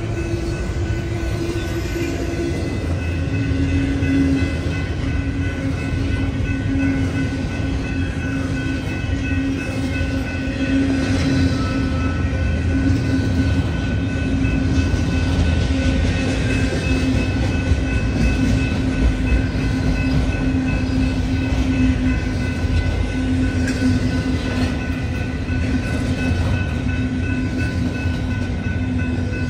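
Double-stack intermodal freight train cars rolling past close by: a steady rumble and clatter of wheels on rail, with a few sustained tones over it, the lowest dropping in pitch about two seconds in.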